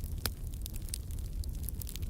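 Wood fire crackling: a rapid, irregular patter of small snaps over a steady low rumble, with one louder pop about a quarter second in.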